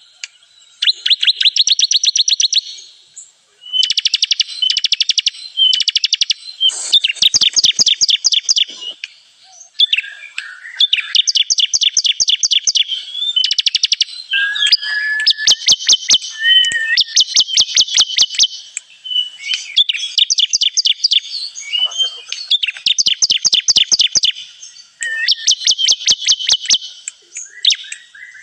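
Bar-winged prinia (ciblek) singing the bright 'kristal' song used to lure birds: fast, high trills of rapidly repeated notes, each run lasting a second or two, following one another with short breaks.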